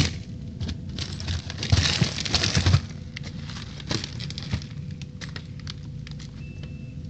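Plastic bags of frozen vegetables crinkling and rustling as they are shifted about in a packed freezer, loudest about two seconds in, with scattered clicks over a faint steady hum.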